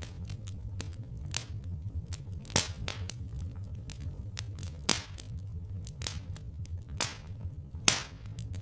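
Wood fire crackling with sharp pops, several louder snaps among many small clicks, over a steady low rumble.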